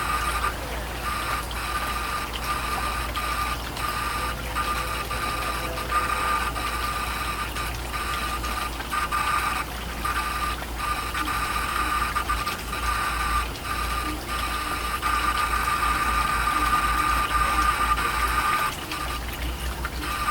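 Steady high-pitched electrical whine over a low hum, briefly cutting out now and then.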